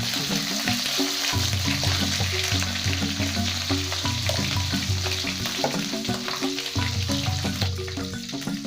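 White-breasted waterhen pieces frying in hot oil, a steady sizzle with scattered small crackles. Background music plays under it.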